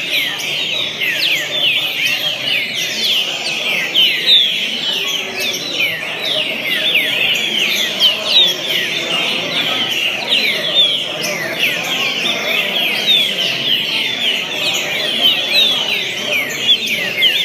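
Birdsong: a dense, unbroken run of quick, high falling whistles and chirps, overlapping as if from several birds singing at once.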